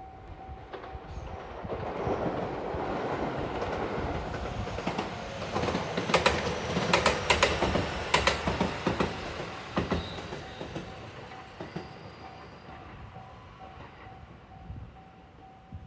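JR Marine Liner electric train passing close by into the station. It is a rumble that builds, with the sharp clatter of wheels over rail joints loudest about six to eight seconds in, then fades away.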